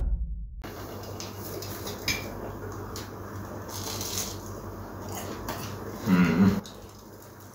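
Breadcrumb-coated fried bread being bitten and chewed, with scattered small crisp crunches. A short hum from the eater comes about six seconds in.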